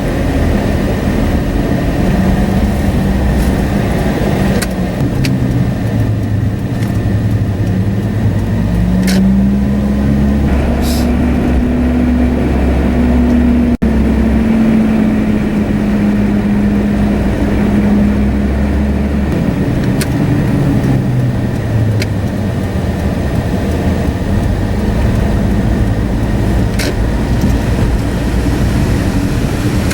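Car engine running while driving, its pitch rising and falling as the speed changes, with a few short clicks.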